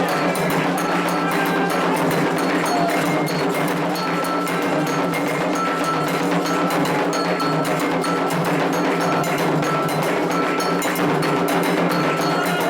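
Candomblé ritual percussion: hand drums played in a fast, steady rhythm, with a metal bell striking a short repeating pattern over them.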